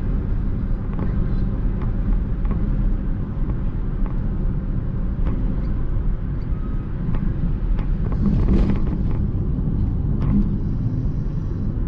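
Steady road and engine rumble heard from inside a moving car, with a few faint clicks and a brief rush of noise about eight and a half seconds in.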